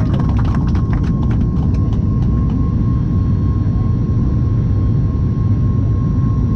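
Boeing 737 MAX 8's CFM LEAP-1B jet engines heard inside the economy cabin: a loud, steady low rumble with a thin steady whine on top. A few light clicks fade out in the first couple of seconds.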